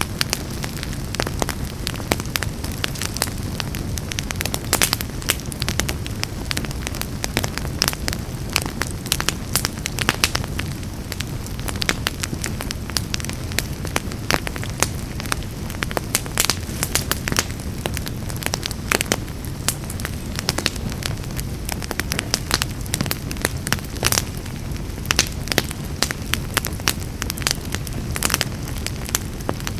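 Wood fire burning in a fireplace, crackling and popping continuously with many irregular sharp snaps over a steady low rushing sound.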